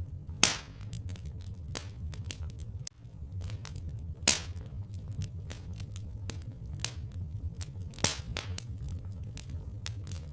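Wood fire crackling with frequent small snaps and three louder pops, over a steady low rumble.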